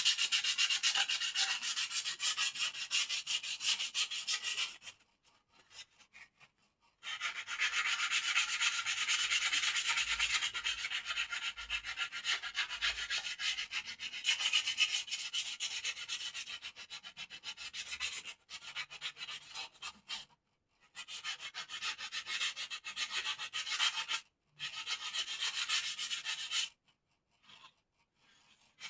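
Bird-cage parts being sanded by hand: quick scraping strokes of abrasive on wood, pausing for a couple of seconds about five seconds in and briefly a few more times in the second half.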